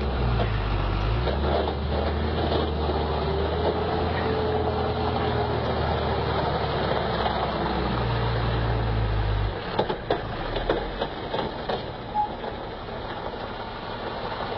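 Heavy truck engine running steadily at low revs, a deep even hum, which cuts off abruptly about two-thirds of the way through, leaving street noise with a few scattered knocks.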